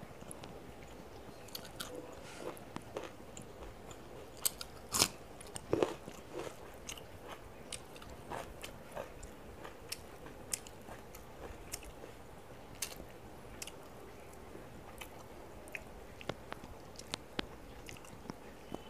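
Close-miked chewing and crunching of food, with scattered sharp crunches and mouth clicks; the loudest crunches come about five to six seconds in.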